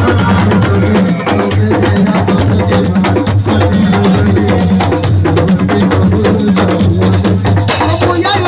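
Assiko band music: dense, driving drum and percussion strikes over a steady, strong bass line, with a bright crash near the end.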